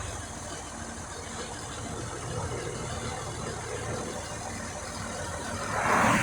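Large tractor's engine running steadily at idle, with a brief swell of louder noise near the end.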